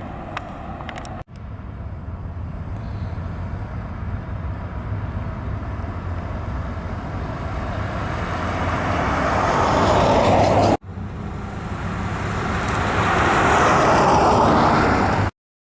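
A 1964 Pontiac Catalina Safari wagon's 389 V8 running as the car drives, in three short clips cut together. The sound grows steadily louder over the second and third clips and cuts off suddenly near the end.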